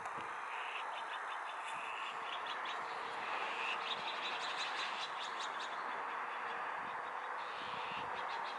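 Small birds chirping in quick, repeated short calls over a steady background noise.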